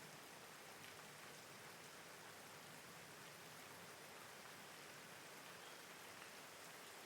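Steady, soft rain: an even hiss of falling rain with faint patter of drops, unchanging throughout.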